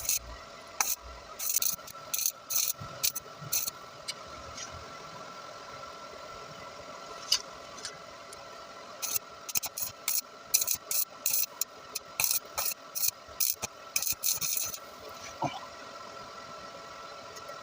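Welder crackling in short bursts as a replacement catalytic converter is tack-welded onto the exhaust pipe: a few quick tacks at the start, a single one about seven seconds in, then a fast run of a dozen or so tacks, over a steady background hum.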